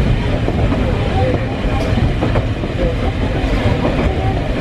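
Eizan Electric Railway electric train running along the track, heard from inside the front of the train: a steady low rumble of wheels on rails, with a couple of short clicks about two seconds in.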